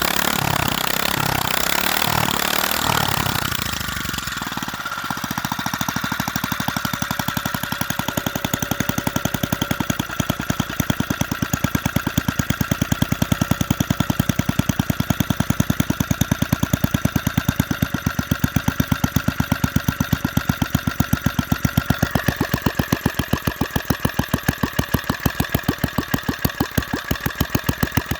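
Briggs & Stratton single-cylinder small engine running, dropping in speed about four seconds in and then idling low with each firing stroke heard as a separate, even pulse.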